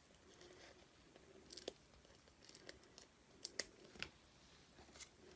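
Faint, scattered clicks and small crinkles of mini foam adhesive pads being picked at and peeled off their backing sheet, about half a dozen light ticks.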